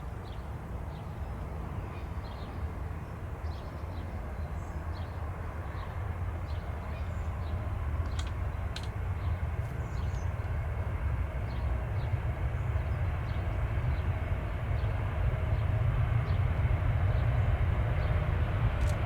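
Jet airliner engines rumbling low and steady, growing gradually louder as the aircraft draws nearer, with faint short chirps or ticks scattered over it.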